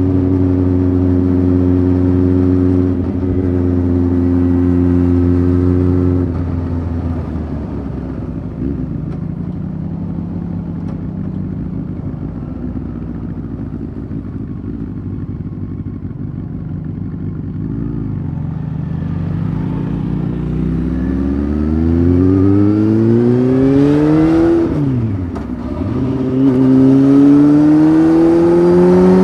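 Honda CBF 600 inline-four with a titanium sport exhaust: running steadily at a cruise, then rolling off throttle for a long stretch, then revving up hard through the gears, with a quick drop in pitch near the 25-second mark as it shifts up before climbing again.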